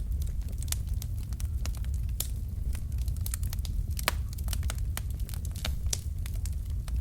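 Wood fire of burning logs crackling, with irregular sharp pops and snaps over a steady low rumble of the flames; the loudest pop comes about four seconds in.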